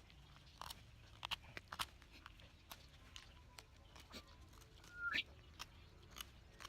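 A small fixed-blade knife whittling wood in short, irregular strokes, each a faint crisp click or scrape, with a short rising squeak about five seconds in.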